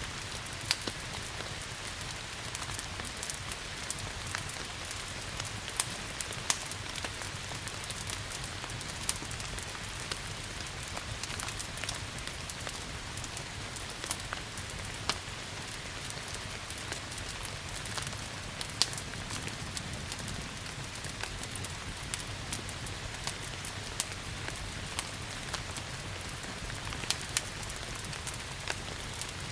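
Steady rain hiss mixed with the irregular sharp crackles and pops of a wood fire burning in a fireplace, over a low steady rumble.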